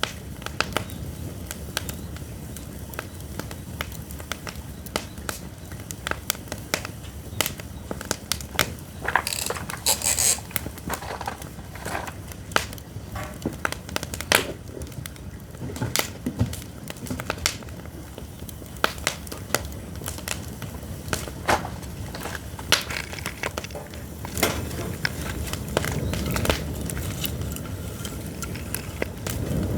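Pine firewood burning, crackling with many sharp, irregular pops, over a low rumble. A brief hiss comes about nine seconds in.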